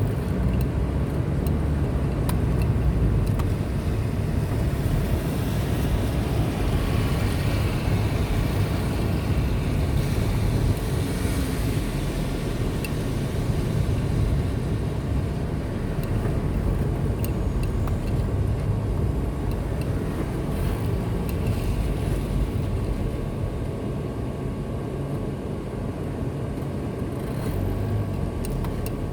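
Car driving along a highway, with a steady low rumble of engine and tyre noise.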